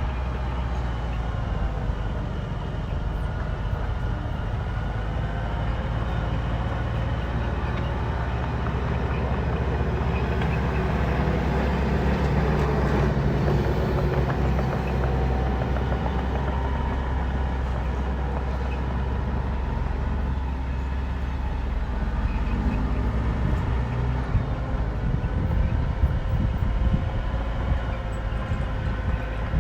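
Bulldozer's diesel engine running steadily, working a little harder for a few seconds around the middle.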